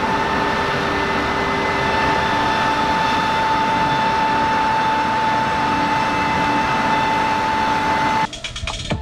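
Steady drone of a farm machine's engine running at constant speed, with a steady high whine over it. It cuts off suddenly near the end and electronic music starts.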